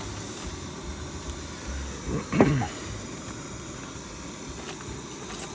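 Pan on a camp stove just deglazed with wine: a steady low hiss and rumble of the burner and the simmering liquid, with one brief squeak a little over two seconds in.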